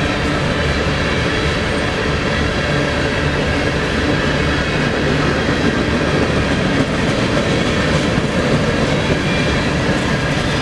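Freight cars of a coal train rolling steadily past on the main line: a constant rumble and rattle of steel wheels on rail.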